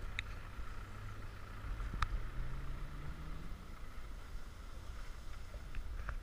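Off-road 4x4 SUV's engine running at low revs as it crawls over a steep gravel slope, with a sharp click about two seconds in.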